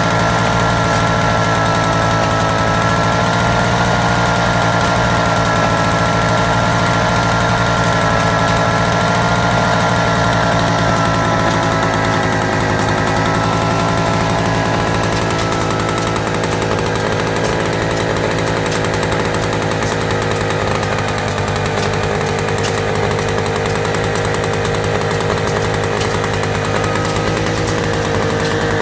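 Auto Union/DKW two-stroke single-cylinder stationary engine running steadily under its governor, its pitch sagging slightly about halfway through and picking up again near the end.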